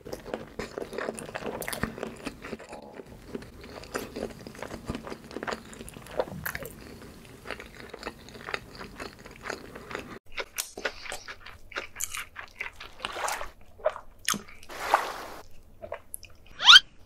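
Close-miked chewing and biting of food: many crisp crunches in quick succession for about ten seconds, then sparser, wetter chewing sounds with a few louder bursts. A brief loud rising sound comes near the end.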